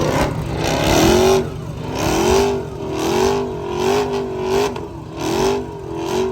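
A car engine being revved over and over in short blips, about one a second, its pitch rising and falling with each rev.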